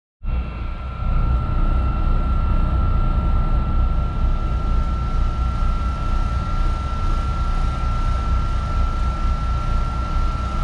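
Long Island Rail Road electric commuter train heard from inside the car as it rolls along: a steady low rumble with a constant high whine above it.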